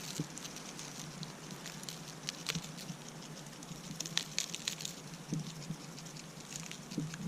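Potatoes, onion and garlic frying in butter and oil in a pan over a wood fire: a steady sizzle with scattered pops and crackles.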